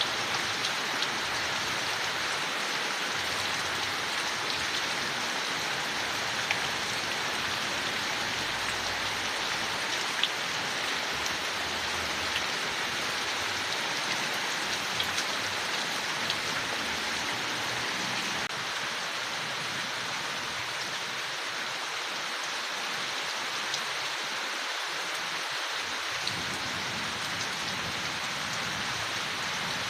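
Steady rain falling on forest leaves, an even hiss with scattered individual drops ticking through it.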